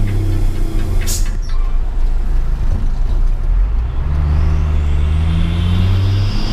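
Hino 500 truck's diesel engine running steadily, with a short burst of air hiss about a second in, then picking up revs from about four seconds in as a high whine rises with it.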